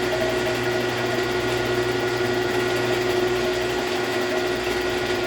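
Milling machine running steadily, taking a light facing cut of about 2 thou across a Duramax cylinder head, with a steady whine of several constant tones over an even machining noise.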